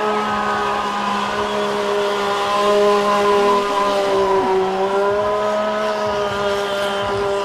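Sport motorcycle engine held at steady high revs during stunt riding, its pitch holding nearly constant with slight wavering.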